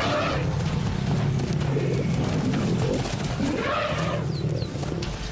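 African elephants trumpeting: two loud calls, one at the start and one a little before the end, over a low steady hum, from a distressed herd confronting lions at a kill.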